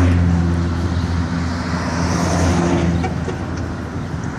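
Engine of a classic car cruising past at low speed, a steady low rumble that fades away about three seconds in, over road and traffic noise.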